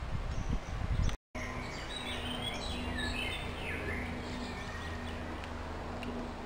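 Small birds chirping in a quick run of short calls over steady outdoor background noise, after the sound cuts out for a moment near the start.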